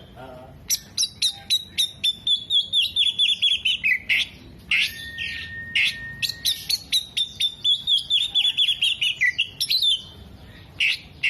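Oriental magpie-robin singing: fast runs of trilled, descending chattering notes, broken by one long steady whistle about halfway through.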